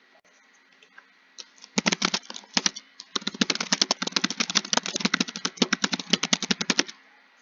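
Fast typing on a computer keyboard: a short burst of keystrokes about two seconds in, a brief pause, then a steady run of rapid keystrokes that stops about half a second before the end.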